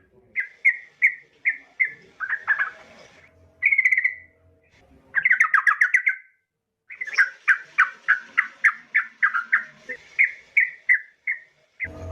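Yellow-vented bulbul calling in bursts of short, bright chirping notes with brief pauses between the groups, then a fast run of about three to four notes a second in the second half. The recording is presented as a female calling to a male.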